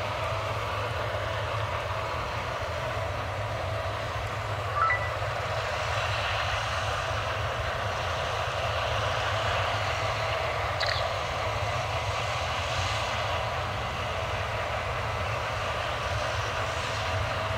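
Case combine harvester running steadily under load while harvesting barley, a constant mechanical drone with steady whining tones over a low rumble. A short sharp click about five seconds in, and a fainter one near eleven seconds.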